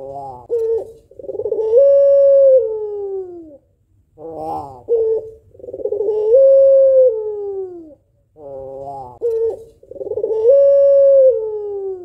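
White female puter pelung (domestic Barbary dove) cooing three times. Each call is a short quavering stutter followed by a long drawn-out coo that rises, holds, then falls away.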